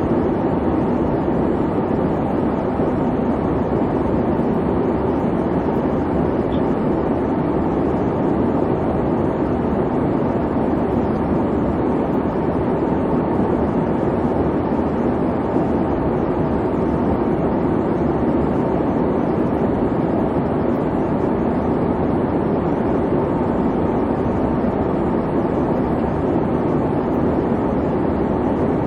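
Airplane cabin noise in flight: a steady, unchanging rumbling hum of engines and airflow.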